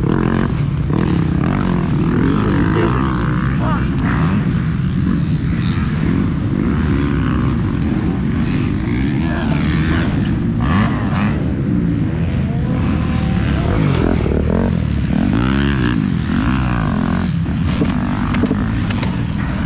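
Motocross bike engine revving hard, its pitch repeatedly climbing and dropping, with frequent knocks and buffets from riding over a rough track, picked up by a camera mounted on the rider or bike.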